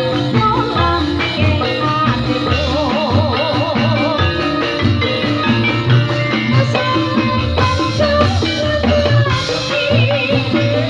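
Topeng Ireng music played live: a wavering vibrato vocal melody over steady drums and rattling percussion.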